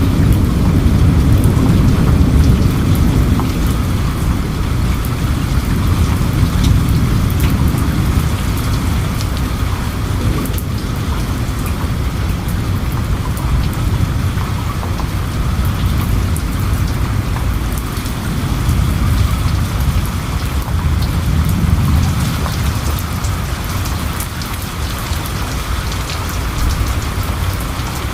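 Steady, heavy rain falling. A low rumble of distant thunder rolls under it at the start and swells again about twenty seconds in.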